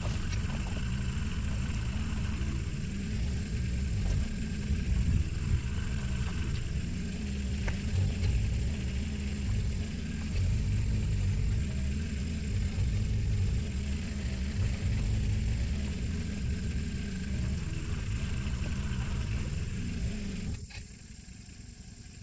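Heavy machine engine running steadily under load, with a few sharp clicks and knocks. It drops away sharply about twenty seconds in.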